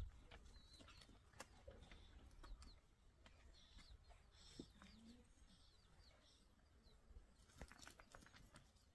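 Near silence with faint, high bird chirps scattered through it and a few soft clicks.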